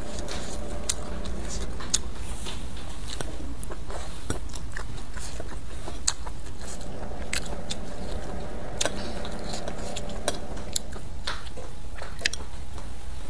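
A person chewing and eating soft hotpot food, picked up close, with many irregular sharp clicks of mouth and chopsticks over a steady low hum.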